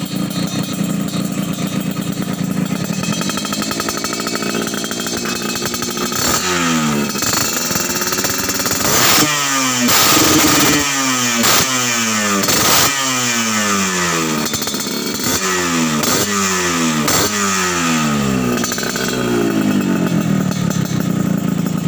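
Yamaha RX-King's two-stroke single-cylinder engine through an aftermarket stainless steel exhaust, with a crisp, dry note. It idles, picks up revs, then gets a long run of quick throttle blips about once a second before settling back toward idle near the end.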